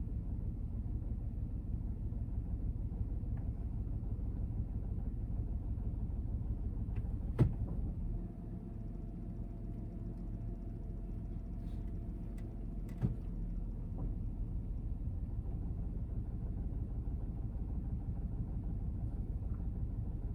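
Steady low rumble of a Honda N-BOX's S07A three-cylinder engine running, heard from inside the cabin, easing off slightly about 8 seconds in. Two sharp clicks sound, about 7 and 13 seconds in.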